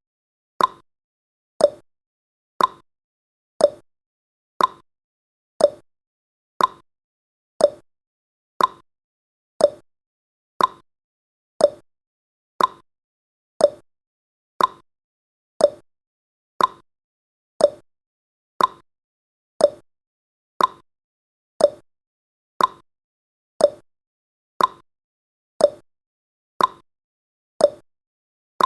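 Clock ticking sound effect: an even tick-tock of about two clicks a second, alternating higher and lower in pitch.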